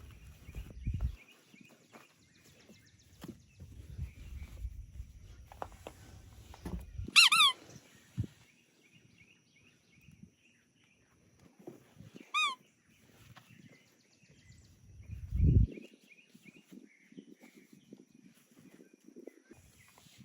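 Squeaky dog toy squeezed twice, about seven and twelve seconds in, each a loud short squeak with a falling pitch, among the rustle and handling of plush toys being placed in a basket, with a thump about fifteen seconds in.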